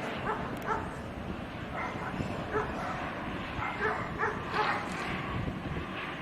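A dog yapping, short high barks repeated irregularly, over a steady low rumble.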